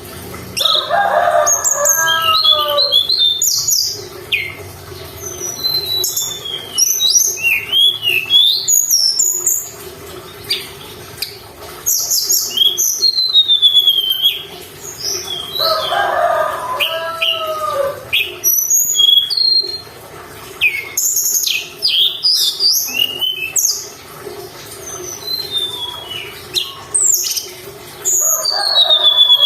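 Tledekan gunung singing a lively song of rapid high chirps, twitters and quick whistled glides. A lower, downward-curving phrase comes in three times, about every 13 seconds, under a faint steady hum.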